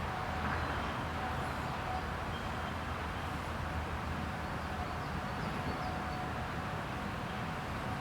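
Steady outdoor background noise with a low rumble and a few faint, high, short chirps, and no distinct pecking strikes.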